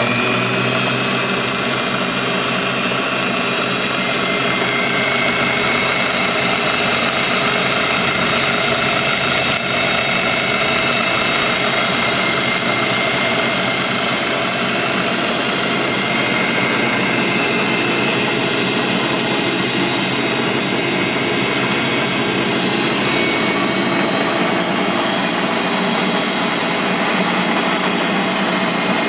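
South Bend bench drill press running at its highest speed: a loud, steady whirr of motor, belt and spindle with several steady whining tones, the pitch settling just after it starts up.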